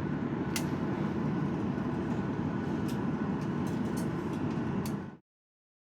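Steady airliner cabin rumble inside a Boeing 737-800 taxiing after landing, with a few faint clicks, cutting off suddenly about five seconds in.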